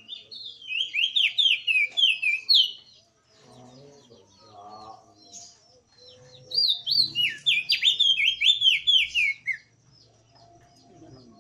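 Crested white-eye (opior jambul) singing: two bursts of quick, falling whistled notes, each about three seconds long, with fainter chirps of other birds behind.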